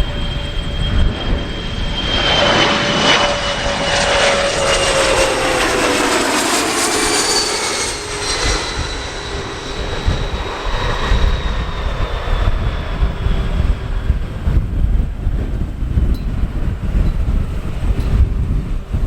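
Airplane passing close by: its engine sound swells to loudest a few seconds in, with steady whining tones that drop in pitch as it goes past, then fades away. Wind buffets the microphone throughout.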